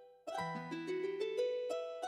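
Background music of plucked notes climbing in quick, repeating arpeggios over a held low note. It fades to a brief gap just after the start, then picks up again.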